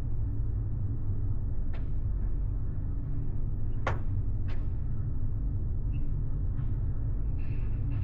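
Steady low rumble of a large ferry under way, heard inside a passenger cabin, with three short sharp clicks or creaks about two, four and four and a half seconds in.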